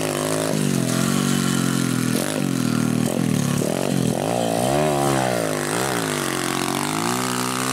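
SSR pit bike's single-cylinder engine, fitted with an upgraded aftermarket carburettor, revving up and falling off repeatedly as it is ridden, with a few sudden drops in pitch at gear changes or when the throttle is shut.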